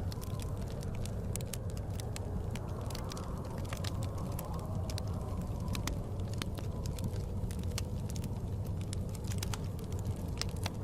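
Wood fire crackling in a fireplace, with many irregular sharp pops, over a steady low rumble of blizzard wind.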